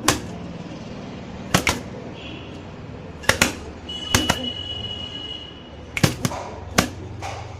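A nesting pigeon guarding its chicks strikes out at the intruder, giving about seven sharp slaps at irregular intervals, some in quick pairs.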